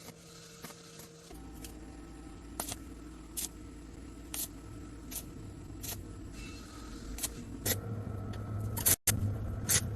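Sharp clicks and taps, about one a second, over a low steady hum that comes in about a second in and grows louder near the end.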